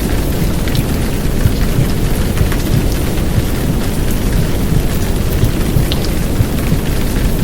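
Heavy downpour rain blended with a muffled, womb-like heartbeat and white noise, running as one steady wash of low noise with scattered drop ticks.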